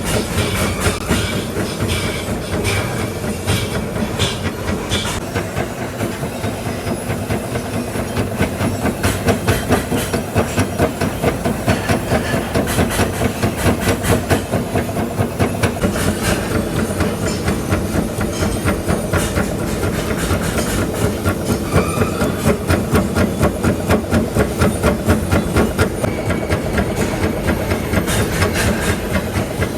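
Running workshop machinery with a steady, rhythmic clatter of quick, even beats.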